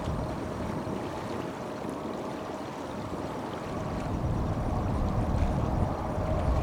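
Distant Boeing 777-300 jet engines rumbling at takeoff power as the airliner departs, growing louder in the second half.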